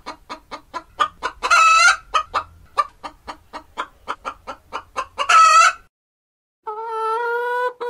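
Domestic chickens clucking in a quick, even run of about four clucks a second, broken twice by a longer drawn-out call. After a short gap near the end, a steady held tone.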